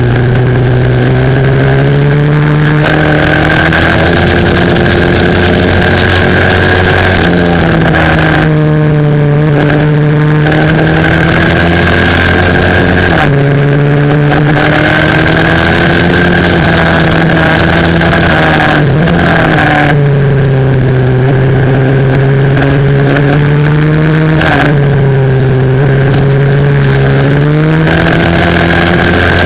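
Loud 140cc pit bike engine at race pace, revving up and dropping in pitch about every five or six seconds as the rider shifts and brakes for corners.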